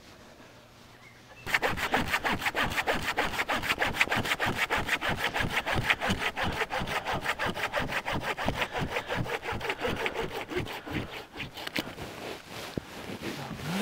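Hand saw cutting through pine wood in fast, even back-and-forth strokes, starting about a second and a half in and growing softer near the end.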